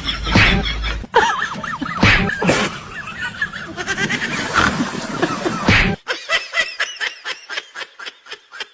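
People laughing; near the end, a rapid run of short laughs, about five a second.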